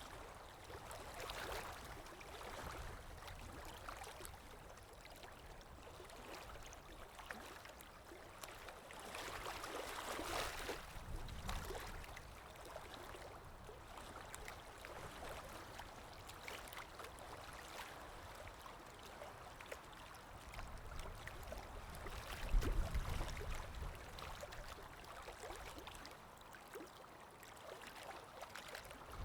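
Underwater water ambience: a quiet, muffled wash of moving water with gurgles and slow swells, and a louder low rumble about three quarters of the way through.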